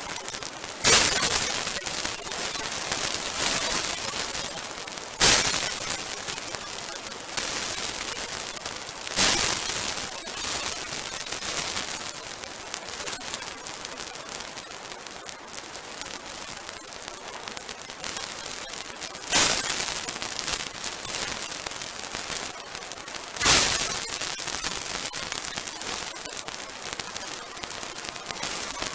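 Large bonfire of damp, partly green garden rubbish burning, with constant close crackling and five loud, sharp pops.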